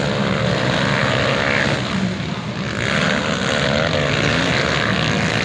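Motocross bike engines running and revving on the track, their pitch rising and falling.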